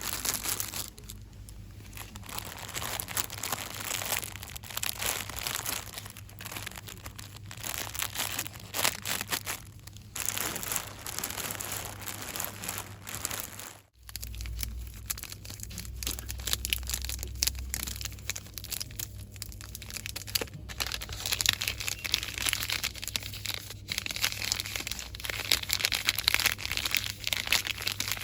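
Fast, dense crinkling and rustling of shop packaging handled hard, with a brief cut-out about halfway through.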